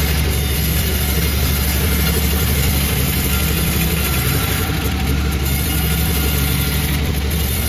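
A motor running steadily at an even, unchanging speed, with a deep drone.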